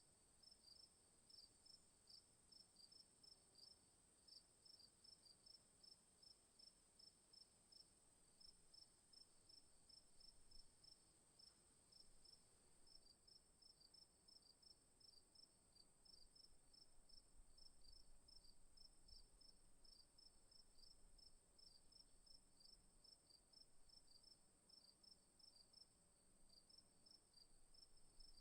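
Faint insects: a steady high-pitched hum with a fast, regular chirping over it.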